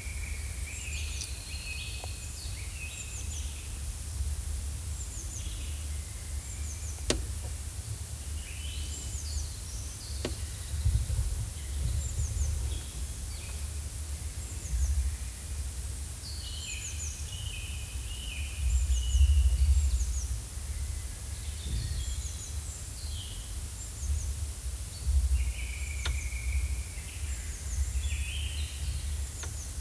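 Forest ambience: songbirds singing and calling, many short repeated chirps and trills, over a low rumble.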